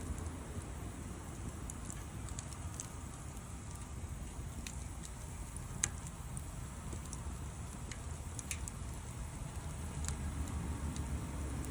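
Wood fire (bonfire) crackling: scattered sharp pops and snaps, one louder pop about six seconds in, over a steady low rumble.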